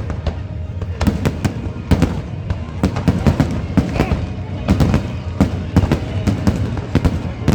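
Aerial fireworks going off in rapid, irregular succession, several bangs a second over a continuous low rumble.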